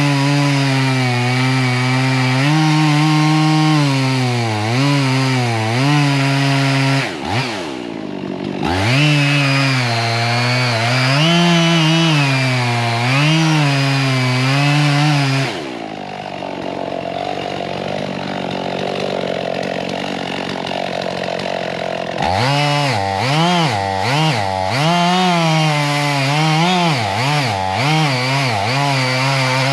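Two-stroke chainsaw cutting into a dead oak trunk, its engine pitch dipping repeatedly as the chain bogs down in the cut and then recovering. About seven seconds in, the engine drops back and revs up again. Around the middle it runs lower and rougher for several seconds before it revs up and cuts again.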